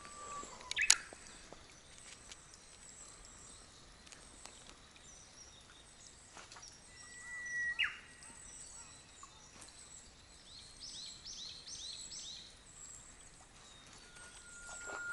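Wild birds calling over faint open-air quiet: a sharp chirp about a second in, a long whistled note around the middle that ends in a quick drop, then a quick run of about five high chirps, with another whistle starting near the end.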